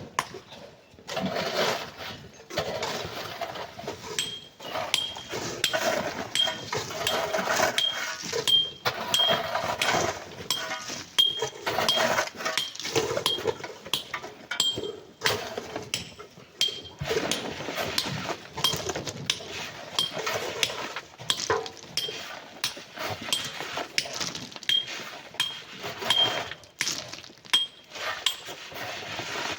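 Hand tools digging sand and rock, an irregular run of knocks, scrapes and clinks of metal on stone. A short high peep repeats a little more than once a second through most of it.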